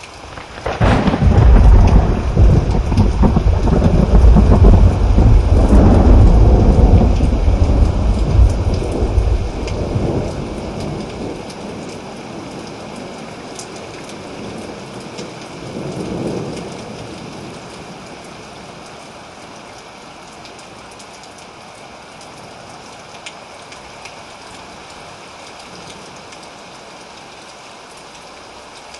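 Steady rain hiss with a long roll of thunder that breaks out about a second in and rumbles loudly for about ten seconds before fading. A second, weaker rumble swells and dies away a little past halfway, then only the rain remains.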